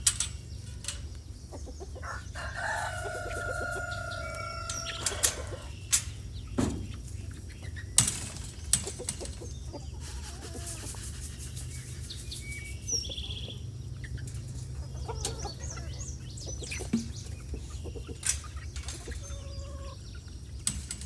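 Chickens clucking, with a rooster crowing in one long call about three seconds in. Several sharp knocks come a few seconds later, over a steady low rumble.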